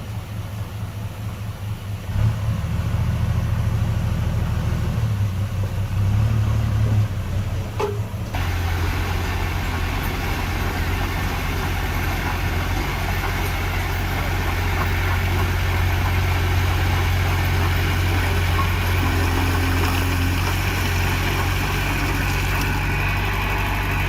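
Heavy diesel engine of earthmoving machinery running steadily, with a deep low drone. It gets louder about two seconds in and changes abruptly about eight seconds in, then runs on evenly.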